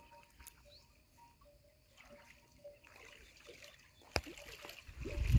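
Quiet open-air ambience with a distant bird's faint call, one short note repeated a few times a second. A single click about four seconds in, then a low rumble of wind buffeting the microphone building near the end.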